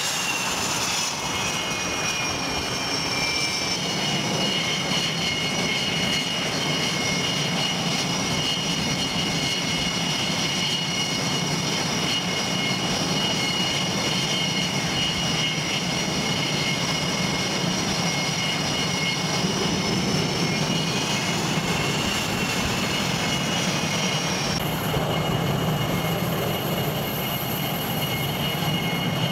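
Fixed-wing aircraft engines running loudly and steadily, with a high turbine whine of several tones. The whine drops in pitch at first, holds, swells up and back about twenty seconds in, and shifts abruptly near the end.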